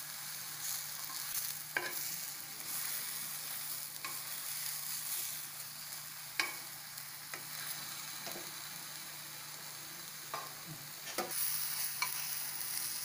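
Halved ripe nendran bananas sizzling steadily in a nonstick frying pan on a low flame, softening through. A metal spatula clicks and scrapes against the pan several times as the slices are pressed and turned.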